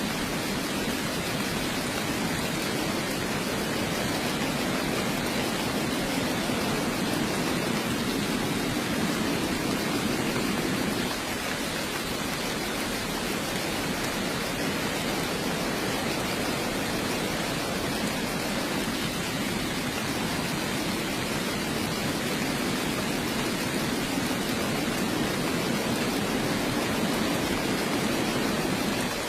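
Heavy rain falling steadily, an even rushing hiss with no distinct drops, dipping slightly in level about eleven seconds in.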